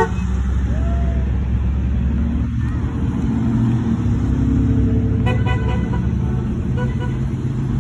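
Classic cars in a parade driving past with engines running in a steady low rumble; a car horn gives a quick series of short toots about five seconds in.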